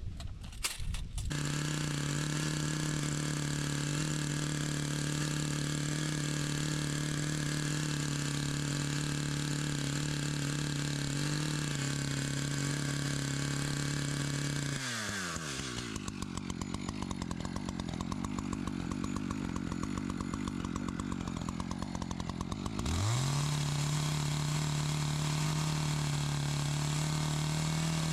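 Two-stroke chainsaw engine running at high speed with a steady pitch, dropping to a pulsing idle about halfway through, then revved back up to high speed about eight seconds later.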